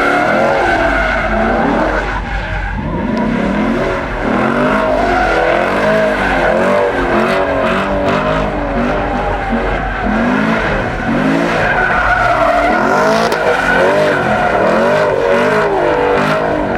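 A car doing donuts: its engine revs up and down over and over, about once a second, and its tyres squeal without a break as they spin.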